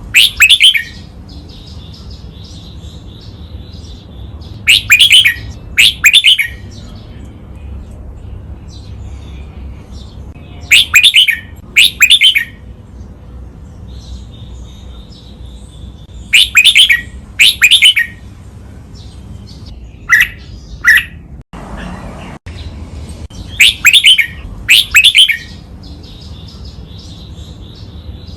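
Red-whiskered bulbul singing its loud training song, each phrase doubled as two quick bursts, repeated about every six seconds with faint chirps in between. A steady low hum runs underneath.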